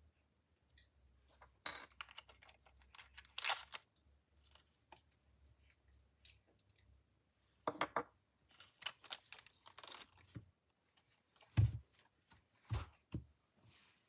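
MoYu speed cube being turned by hand: bursts of quick plastic clicking and rattling layer turns, with pauses between them.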